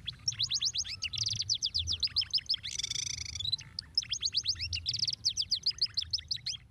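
Canary singing: fast trills of repeated sweeping notes, about ten a second, broken by a brief buzzy passage about three seconds in.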